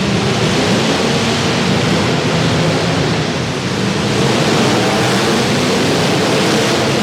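Engines of several demolition derby cars running together, a loud steady din.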